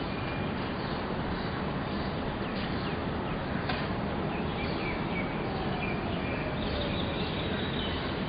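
Birds chirping now and then over a steady background rush of open-air noise.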